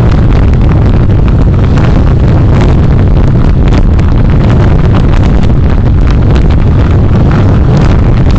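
Car driving, recorded by a dashcam's built-in microphone: a loud, steady low rumble of road and engine noise with frequent small clicks and knocks over it.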